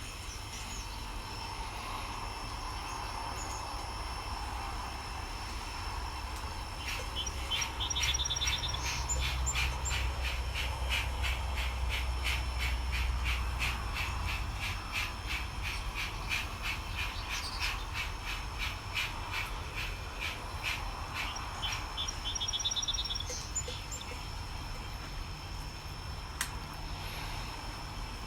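Model 2-8-0 steam locomotive's sound unit chuffing in an even beat for most of the middle stretch, over a steady low rumble as the engine moves cars. A few short chirping trills sound over it.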